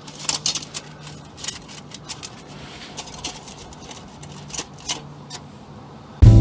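Irregular snips, clicks and crinkles of a thin aluminium drink can being cut with scissors and handled. Loud music cuts in suddenly at the very end.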